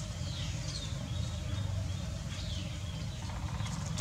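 Birds chirping: three or four short, high calls, each falling in pitch, over a steady low rumble.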